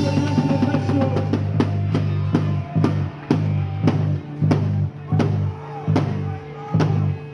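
Rock band music: a drum kit hitting about twice a second over a steady bass line. About three seconds in, the bass starts cutting in and out between the drum hits in a stop-start rhythm.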